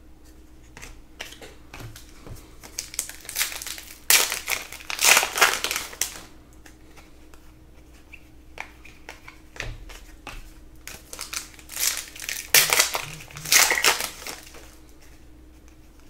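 A foil trading-card pack wrapper crinkling as it is torn open and handled, in two main bouts of rustling with small clicks and rustles between.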